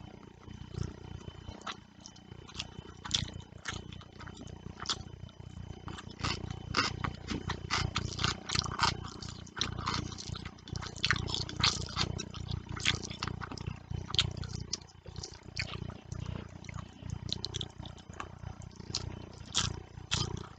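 Close-miked eating sounds of fish curry and rice: chewing with many wet lip smacks and mouth clicks, irregular and dense, over a steady low rumble.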